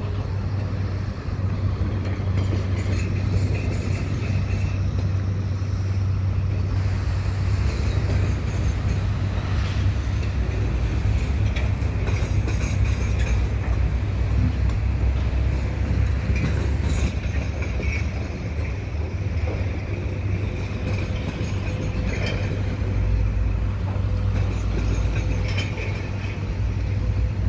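Freight train of double-stack container well cars rolling slowly past on the tracks: a steady low rumble of wheels on rail, with scattered clicks and brief squeaks.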